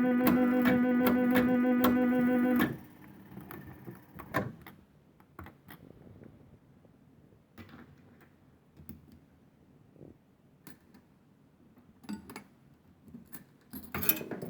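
A Funworld Stars & Stripes fruit machine playing a tune of steady held tones over a quick regular pulse, which cuts off abruptly about two and a half seconds in. Then scattered light clicks and knocks from the machine's mechanism, and a short, louder mechanical rattle near the end.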